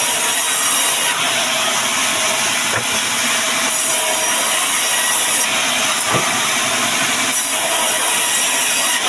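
Band sawmill blade cutting through timber: a loud, steady sawing noise whose tone shifts every second or two.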